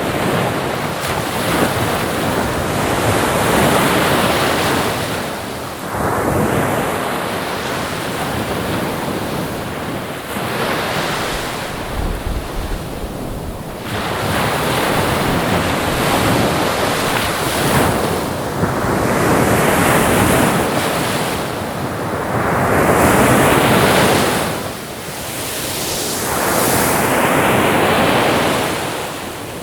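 Ocean waves breaking and washing on a shore, a noisy surf that swells and recedes every few seconds, with wind in the background.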